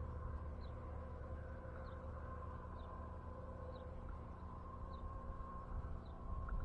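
A bird repeating a short, high, falling chirp about once a second, over a steady low rumble and a faint steady hum.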